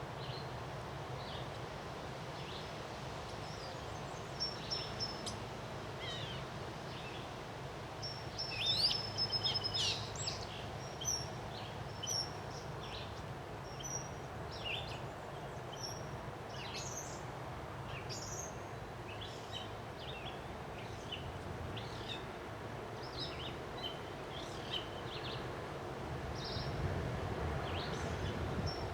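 Wind blowing steadily with many small birds chirping over it, the calls thickest about eight to ten seconds in. The low rush of the wind grows louder near the end, as a gust builds.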